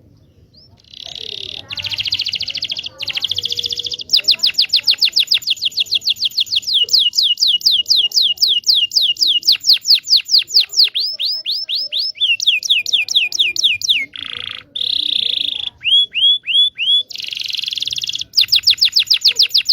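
Canary singing a long, loud song: buzzy rolls, then long runs of fast repeated downward-sweeping notes, a few slower sweeps and short chips, and another buzzy roll and fast trill near the end. It is a lure song meant to coax silent canaries into singing.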